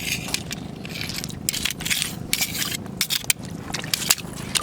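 Irregular crunching, clicking and scraping among rocks, in quick uneven strokes.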